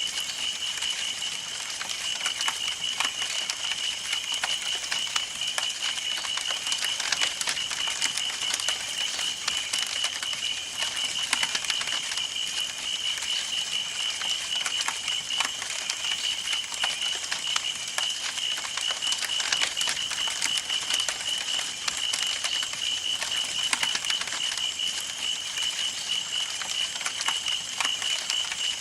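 Wood campfire burning with dense, irregular crackling and popping. A steady high-pitched tone runs underneath throughout.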